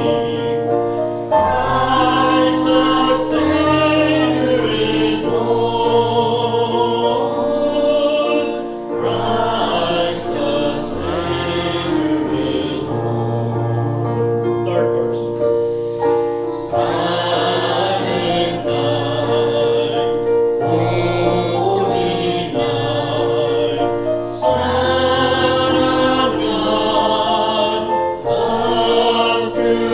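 A group of voices singing a hymn together over a sustained instrumental accompaniment with long held bass notes.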